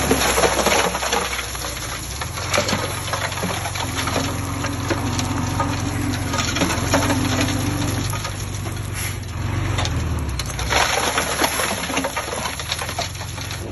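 Loose dirt and stones clattering and crunching as heavy earthmoving machinery works the soil, over a diesel engine running steadily.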